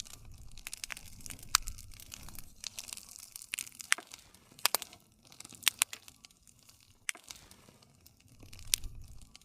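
Wood campfire crackling, with sharp pops scattered irregularly over a low rumble; the busiest cluster of pops comes around the middle.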